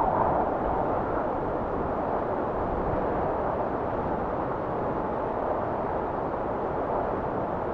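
Blizzard wind blowing as a steady rush, with a gust that eases off about a second in.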